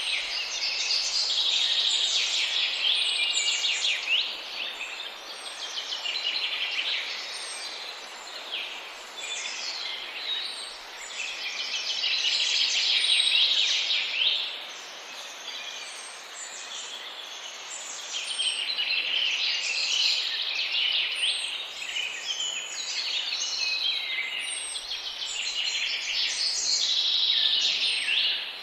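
Many small birds chirping and chattering together in a dense flock chorus. The calls swell and fade several times over a steady background hiss.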